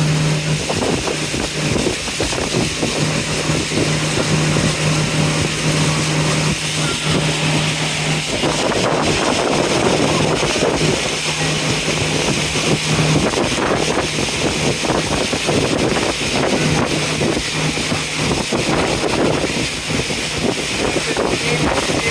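Tour boat's engine running with a steady low hum that fades out and back in. Wind buffets the microphone throughout.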